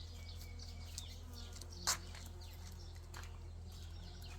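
Faint garden ambience: bees buzzing around flowers, with birds chirping now and then. A short burst of noise about two seconds in.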